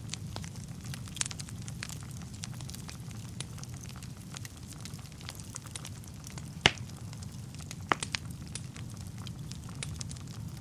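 Wood fire burning in a fireplace: a steady low rumble of flame with scattered crackles and pops of burning wood, two sharper pops about two-thirds of the way through.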